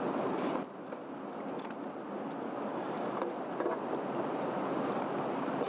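Swedish torch log fire burning, with scattered small crackles and pops over a steady rushing noise.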